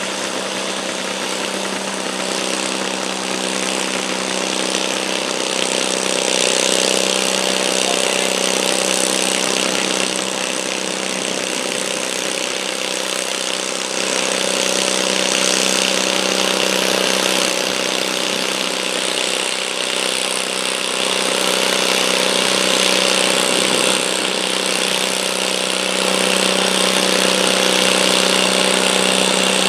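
Garden tractor engine running at a steady, governed speed, its pitch holding level throughout, with the loudness rising and falling slightly.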